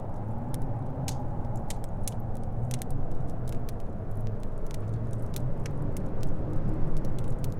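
Wood fire crackling with scattered sharp pops over a steady low howl of wind.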